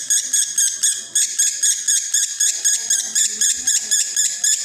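Male lovebird singing a long unbroken 'konslet' chatter, rapid high-pitched notes repeated about five times a second; the nonstop song of a male in breeding condition.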